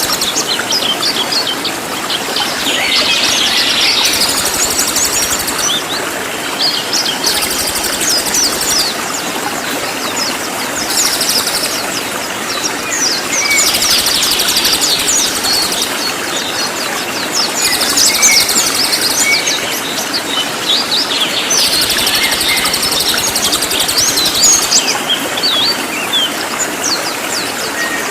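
Cililin song: loud, dense phrases of rapid high-pitched chirps and trills, one every few seconds, over a steady hiss.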